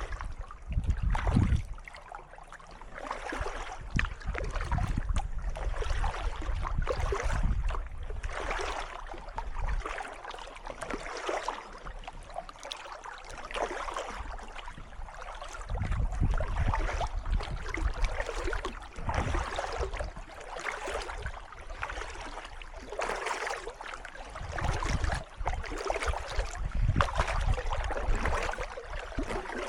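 Kayak paddle strokes splashing in calm water, the splashing swelling every second or two, with low rumbles coming and going.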